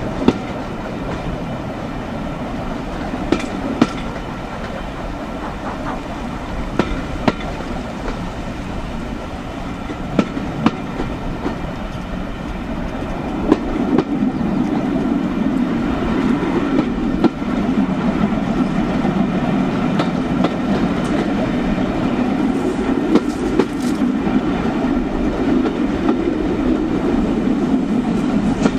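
Heritage steam train's carriage wheels running over jointed rail: a steady rumble with paired clicks about half a second apart, repeating every three to four seconds. Heard from outside the rear carriage window, with wind on the microphone, and the rumble grows louder about halfway through.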